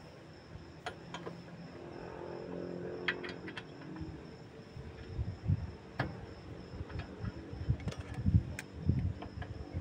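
Scattered light metallic clicks and several dull knocks from hand tools being worked on a car's disc brake assembly during a brake pad change. A faint hum swells and fades about two to four seconds in.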